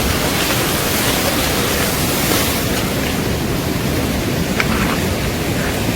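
Loud, steady rushing of running water, an even noise with no breaks.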